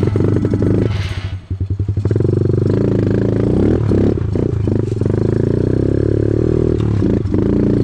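Small pit bike engine running hard on a trail ride, with a clattering scrape about a second in and a brief drop in engine sound before it picks up again and runs steadily.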